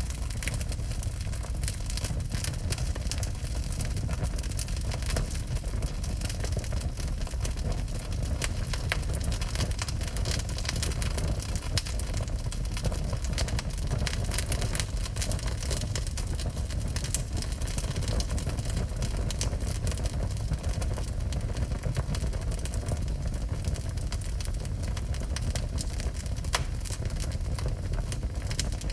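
Wood fire burning in a fireplace: steady irregular crackling and popping over a constant low rumble.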